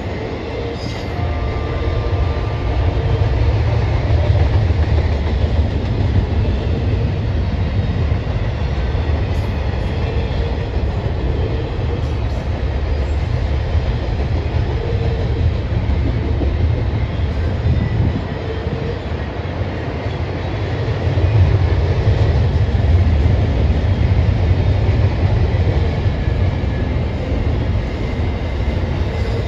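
A freight train's cars rolling past, a steady heavy rumble of wheels on rail that swells louder twice.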